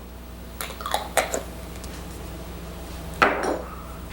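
Kitchen dishes and utensils knocking and clinking as ingredients are handled: a few light knocks around the first second, then a louder clatter a little after three seconds in.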